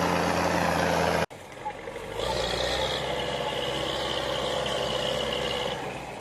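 Engine of an M35A2 military cargo truck running hard as the truck pushes through deep mud, cut off abruptly about a second in. Then a quieter vehicle engine with a steady high-pitched whine for several seconds.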